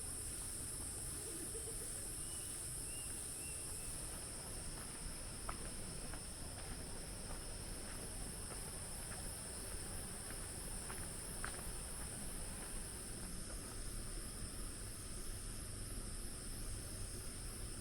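Insects in a steady chorus, a continuous high-pitched buzz, with a few faint clicks.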